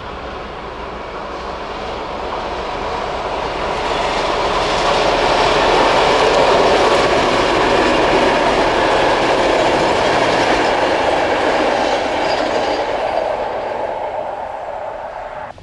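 Diesel passenger train running past: wheel-on-rail noise that grows louder to a peak about halfway through, then fades as it moves away, and is cut off abruptly at the end.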